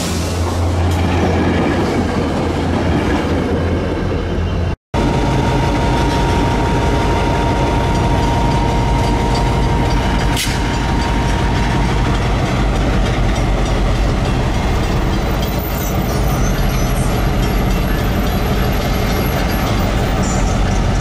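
Bilevel commuter train cars rolling past on the rails for about five seconds. After a cut, a diesel switching locomotive's engine runs with a steady low drone, with a single sharp clank about halfway through.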